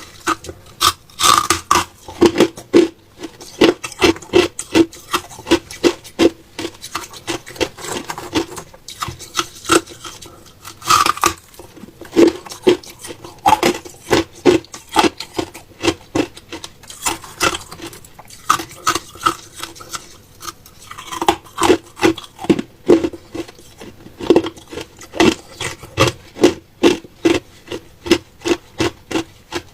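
Ice being bitten and chewed close to the microphone: a steady run of sharp, crisp crunches, about two to three a second, broken by a few short pauses.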